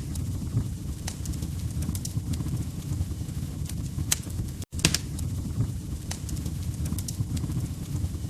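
Log fire crackling in a fireplace: a steady low rumble of flames with irregular sharp pops and snaps. The sound drops out for an instant about four and a half seconds in.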